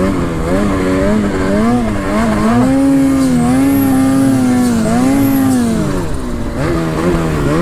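Snowmobile engine revving up and down, its pitch rising and falling several times and held high for a couple of seconds in the middle.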